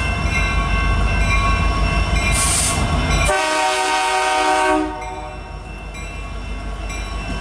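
CN freight diesel locomotives rumbling past, then one air-horn blast of about a second and a half a little over three seconds in: the crew honking in greeting at the trackside. After the horn the rumble is quieter.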